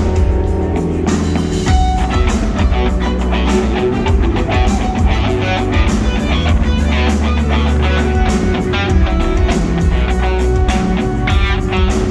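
Live rock band playing loudly: electric guitar over a steady drum kit beat and bass.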